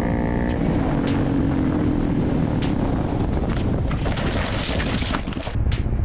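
Wind rushing over the microphone of a moving motorcycle, with road and engine noise underneath and a few scattered knocks.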